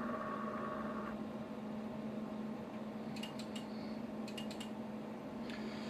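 Electrical hum from the amplifier power-supply test bench just after the kill switch shuts the supply down: a steady low hum throughout, and a higher whine that cuts off about a second in. A few light clicks follow later.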